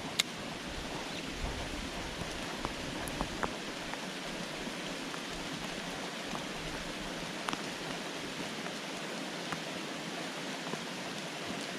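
Steady hiss of rain falling over a flowing creek, with a few faint scattered ticks.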